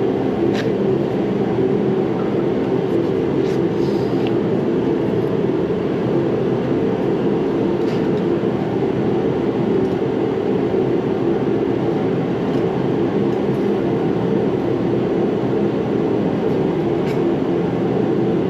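A garage heater running with a steady, even noise. A few faint clicks come through it, a little under a second in, around three to four seconds in, around eight seconds in and near the end.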